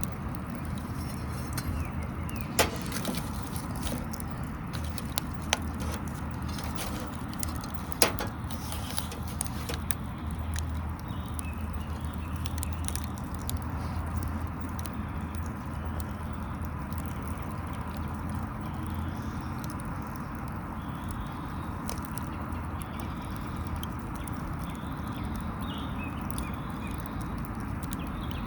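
Small wood fire burning and crackling, with scattered light ticks and a few sharper pops, the loudest about 3, 5½ and 8 seconds in, over a steady low hum.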